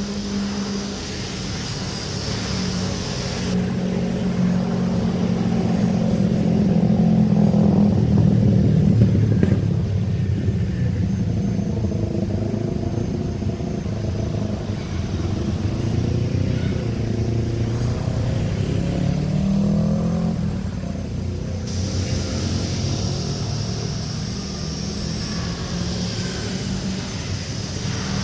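Jet airliner engines running with a steady, deep rumble that swells to its loudest about eight seconds in, then holds, with a faint whine that drifts a little in pitch.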